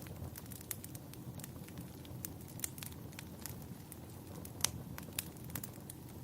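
Wood fire crackling in a fireplace: irregular sharp pops and snaps over a steady low rumble of the flames, with one louder pop a little past the middle.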